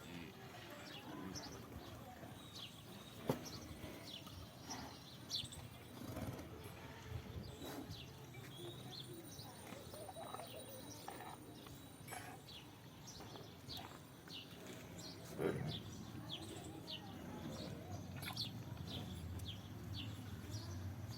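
Outdoor ambience of many short bird chirps over a low murmur of distant voices, with a sharp knock about three seconds in and a louder thump about fifteen seconds in.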